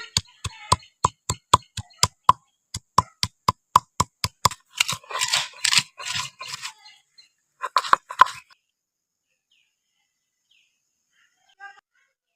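A quick run of sharp, even knocks, about three a second, then a short stretch of scraping noise and two more knocks, after which it falls quiet.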